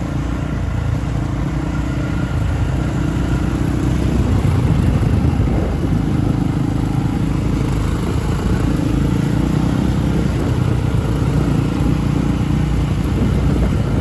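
Motorcycle engine running steadily while riding, a continuous low drone with no let-up.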